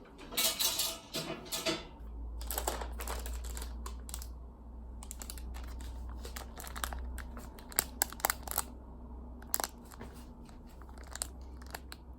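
Delivery box and its packaging being torn open and crinkled, in irregular rustling spells with sharp clicks and knocks as items are handled. A faint low steady hum runs underneath from about two seconds in.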